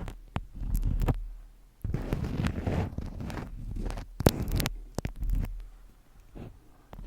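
Close-up handling sounds: a run of sharp taps and clicks, the loudest about four seconds in, over swells of low rustling and rumbling.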